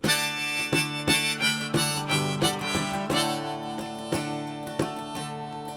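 Harmonica and strummed acoustic guitar playing a folk-song intro, starting abruptly; the harmonica holds long notes over a steady strum.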